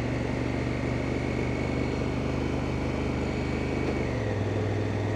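Honda Africa Twin's parallel-twin engine running steadily under way, with wind noise; the engine note drops slightly about four seconds in.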